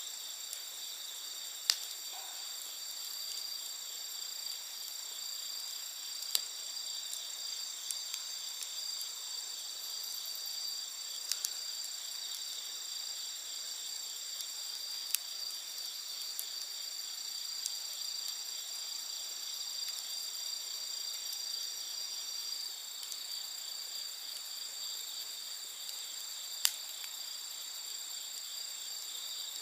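Wood campfire crackling, with a handful of sharp pops spread through, over a steady high-pitched chorus of night insects trilling.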